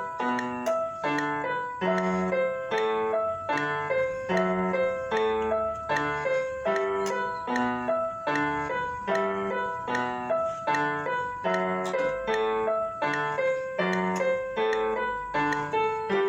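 Solo piano playing a gato, an Argentine folk dance, with evenly repeated struck chords at a steady pace.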